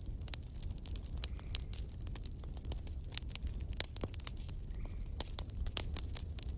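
Fire crackling, with irregular sharp pops and snaps several times a second over a low steady rumble.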